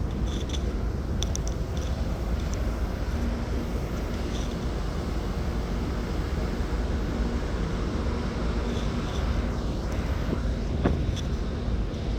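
Steady low rumble of a car ferry under way, with a faint hum coming and going, a few light ticks and one sharp click about eleven seconds in.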